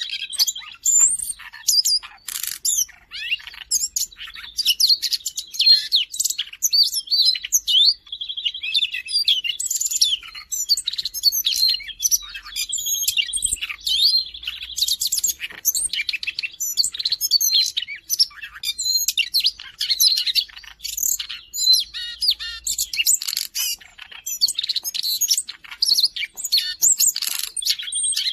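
Siberian rubythroat singing continuously: a fast, varied warble of high chirps and whistles, broken several times by a rapid buzzy trill held at one pitch.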